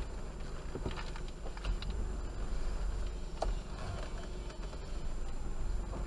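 Maruti Baleno RS's 1.0-litre three-cylinder turbo petrol engine running at low revs as the car creeps slowly, a steady low rumble heard inside the cabin, with a few faint clicks and knocks.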